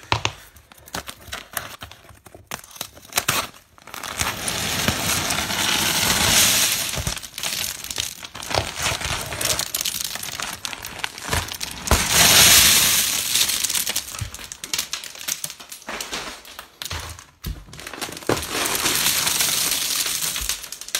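A mass of acorns pouring and clattering out of a wall cavity as a panel and its insulation are pulled back, with crinkling and tearing of the insulation. The pour comes in several louder surges.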